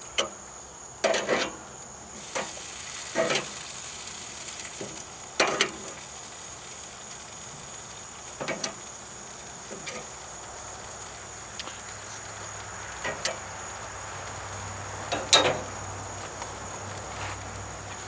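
Chicken thighs sizzling on a charcoal grill while they are turned and glazed, with a dozen scattered clicks and knocks, the loudest near the end. Crickets chirp steadily behind.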